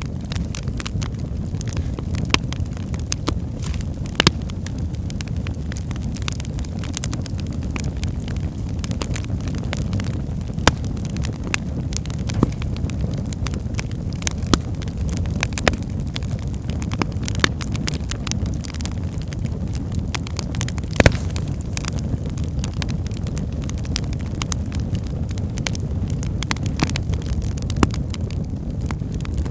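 Wood fire burning in a fireplace: a steady low rumble of the flames with irregular sharp crackles and pops from the burning logs, one louder pop a little past two-thirds of the way through.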